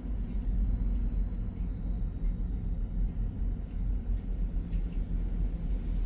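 Strong storm wind from Tropical Storm Erin buffeting the microphone: a heavy low rumble that surges and eases with the gusts.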